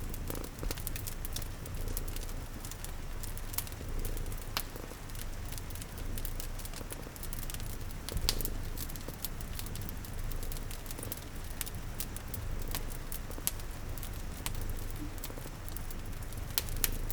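Ambience mix of a cat purring in a steady low rumble, a wood fire crackling with frequent sharp pops, and rain pattering.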